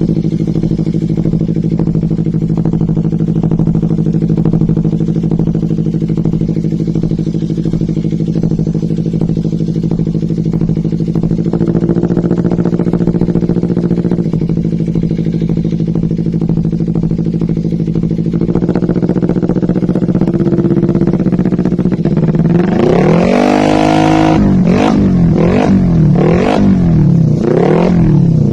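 Kawasaki Ninja 250 FI's parallel-twin engine running through a carbon Akrapovič GP-style slip-on exhaust, idling steadily with two brief, slight rises in engine speed around the middle. Near the end it is revved repeatedly in sharp throttle blips that rise and fall about once a second.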